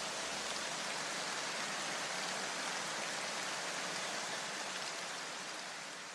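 A steady, even rushing hiss, fading away near the end.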